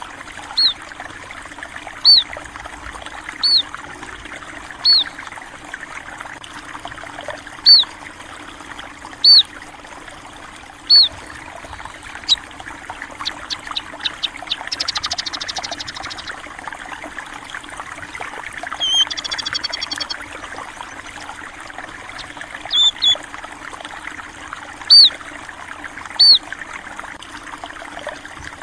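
Stream water trickling steadily, with a small bird repeating a short sharp chirp about every second and a half. Around the middle, a quick run of ticking notes and two short buzzy trills join in.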